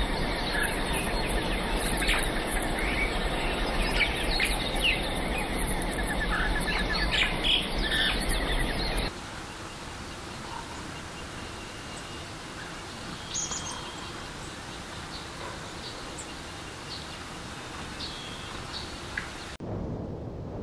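Tropical forest ambience of many birds chirping over a dense insect hum for about the first half. Then it drops to a quieter stretch with only scattered bird calls. Near the end it switches to a low rushing noise.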